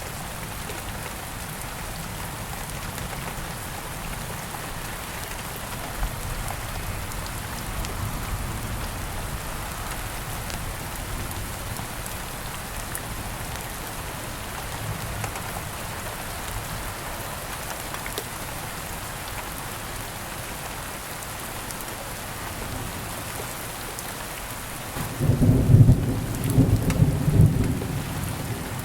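Steady rain falling, with occasional faint crackles from a campfire. About 25 seconds in, a loud low roll of thunder rumbles for roughly three seconds.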